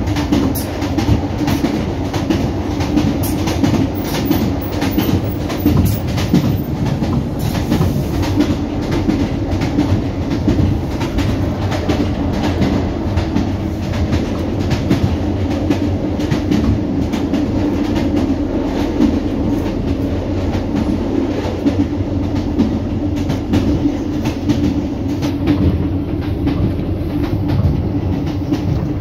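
Diesel passenger train running at speed, heard from inside the carriage: a steady low drone with continual clatter and rattling of the wheels over the track.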